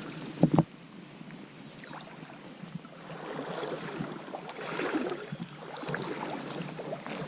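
Small creek water running, with two short knocks about half a second in.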